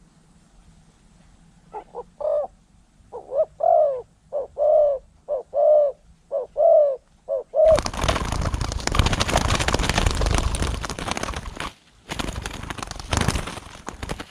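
Spotted dove cooing: a run of about ten low coos. Then a loud, rough rushing noise takes over for the rest, dropping out briefly once.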